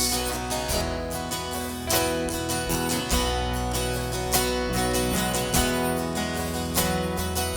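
Instrumental interlude of a worship song: acoustic guitar strumming with bass and sustained keyboard-like chords, about one strum accent every second and a bit, no singing.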